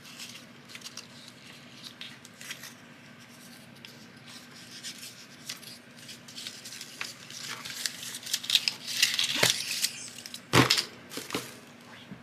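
Paper rustling and crinkling as a strip of craft paper is folded and handled, getting busier in the second half, with one sharp knock near the end.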